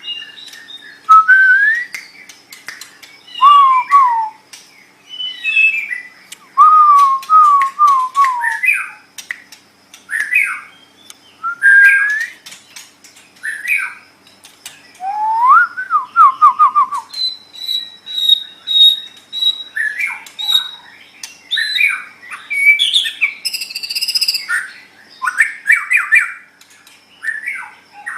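White-rumped shama (murai batu) singing: a varied run of loud whistled phrases, each a second or so long, with rising and falling slurs, quick trills of repeated notes, a held high whistle in the middle and some harsher, scratchier notes later on.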